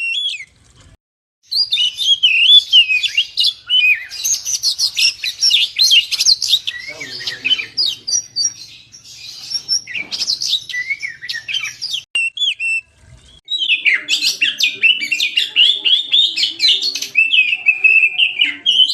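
Oriental magpie-robin (kacer) singing a fast, varied song of chirps and whistles in long bursts, with two short pauses, one about a second in and another about two-thirds of the way through.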